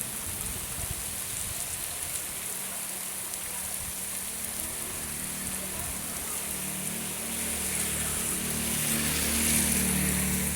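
Steady rain falling, a continuous hiss of drops. A low hum builds in the second half and is loudest near the end.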